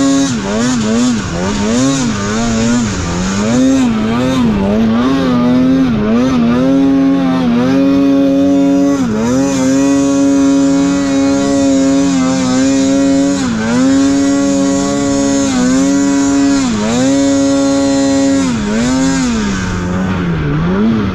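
Snowmobile engine revving hard in deep snow. It goes up and down in quick throttle blips at first, then holds at high revs, with a few short drops in pitch where the throttle comes off.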